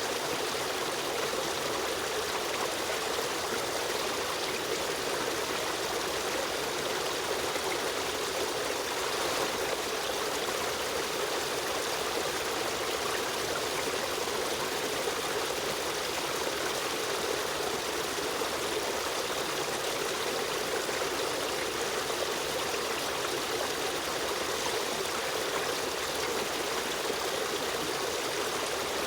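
Small river stream running steadily, a continuous trickling rush of flowing water.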